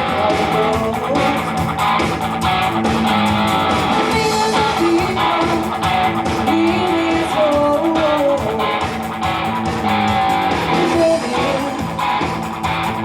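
Rock music led by electric guitar, playing a moving melodic line over sustained lower notes at a steady, loud level.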